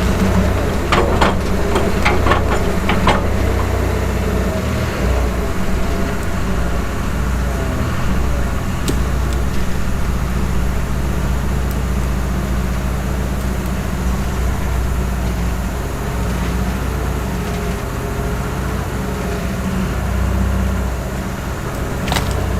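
The engine of a 1968 Atlas excavator running steadily while the machine works its hydraulic boom and thumb. There are a few sharp knocks about one to three seconds in.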